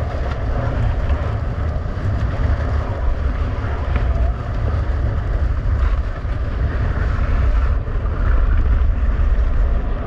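Strong blizzard wind buffeting the microphone: a continuous, gusting low rumble with a noisy hiss above it.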